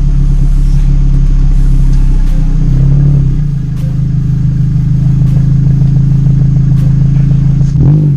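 A 2012 Nissan Rogue's 2.5-litre four-cylinder engine running loud and steady through an aftermarket MagnaFlow exhaust. Just before the end there is a quick rise and fall in pitch.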